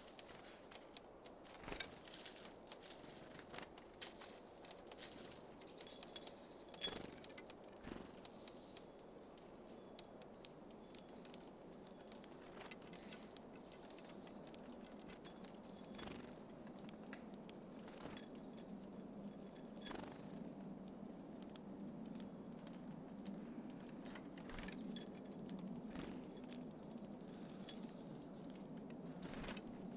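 Small birds at a feeding station: scattered sharp taps and clicks of birds landing and pecking at seeds, with thin, short high chirps. A faint low rumble grows steadily through the second half.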